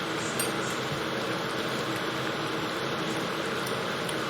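Steady fan-like hiss with a faint low hum, even throughout.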